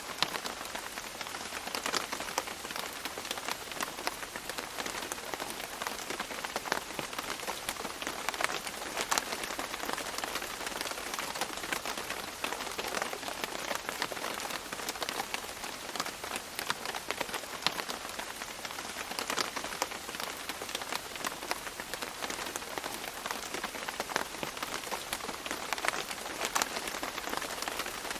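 Steady rain on foliage, with a constant hiss and many separate drops ticking on leaves.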